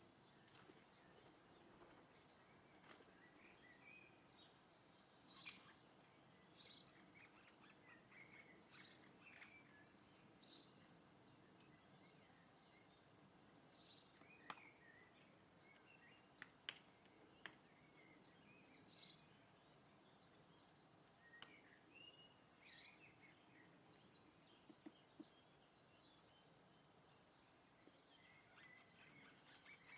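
Faint garden birds chirping and calling now and then, short scattered notes over a quiet background, with a few sharp taps or clicks about halfway through.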